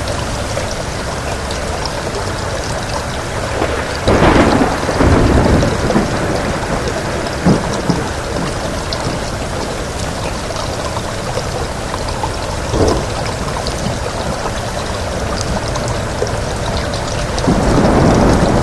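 Steady heavy rain of a thunderstorm, with thunder rumbling about four seconds in and rolling on for a couple of seconds, a sharp crack a little later, a smaller roll in the middle, and another rumble building near the end.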